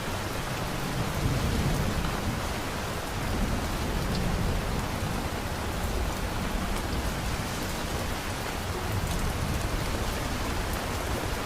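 Heavy rain falling steadily, with low rolling thunder rumbling and swelling a few times.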